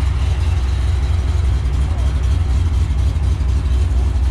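Whipple-supercharged 6.2-litre V8 of a 2011 Chevrolet Camaro SS idling, a steady deep low-pitched engine note.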